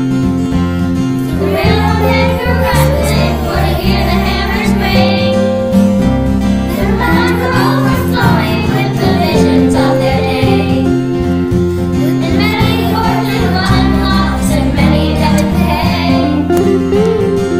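School children's virtual choir singing with instrumental accompaniment.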